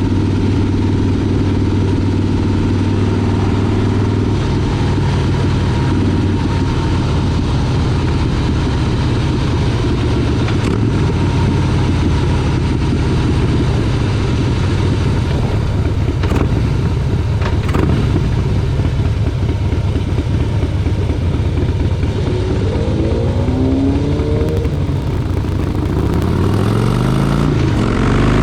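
Motorcycle engine running steadily under way, with a constant rushing haze over it. Its pitch rises several times as it accelerates, from about three-quarters of the way through and again at the very end.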